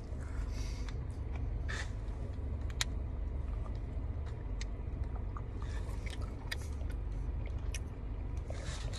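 Close-miked chewing of a leafy salad of greens and cucumber, with scattered crisp crunches and wet mouth sounds, over a steady low rumble inside a car.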